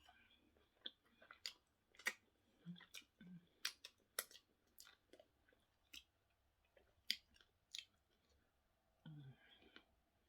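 A person chewing food close to the microphone, with irregular wet mouth clicks and lip smacks and a couple of short low hums.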